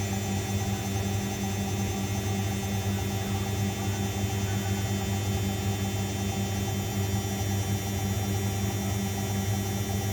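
Zanussi washing machine running with a steady, unchanging hum.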